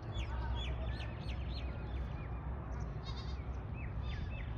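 Goats bleating, with many quick, high chirps from small birds over a steady low rumble.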